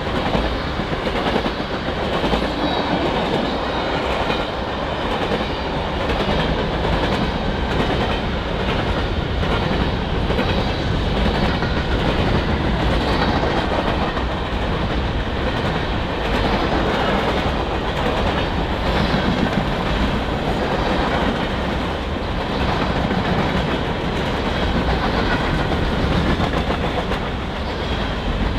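Freight train cars rolling past close by, a steady rumble with the wheels clicking over rail joints.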